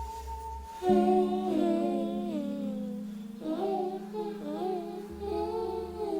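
A voice humming a wordless, wavering melody over a steady low drone that comes in about a second in.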